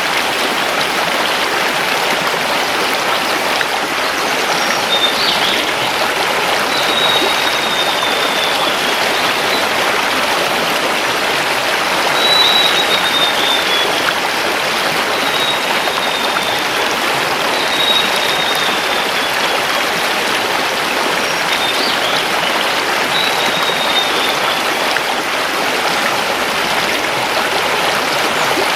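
Mountain river rushing steadily over stones. A bird gives several thin, high whistled notes that slide downward, each a second or two long, spaced a few seconds apart.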